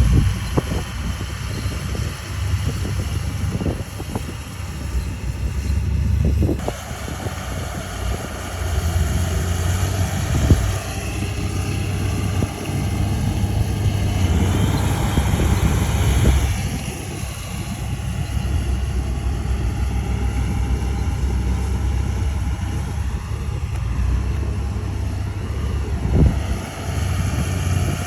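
Heavy diesel engine of a bulldozer running, its low drone swelling and easing with the load, with a few sharp metallic knocks along the way.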